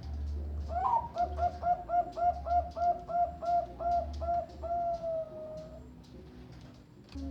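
Zebra dove (perkutut, Bangkok song strain) cooing: a quick, even run of about a dozen short notes starting about a second in, ending in one longer drawn-out note.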